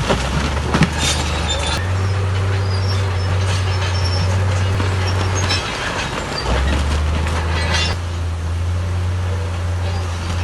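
Heavy diesel earth-moving machinery running under load, its low engine drone stepping up and down in pitch a few times. Metallic clanks and squeals sound over it.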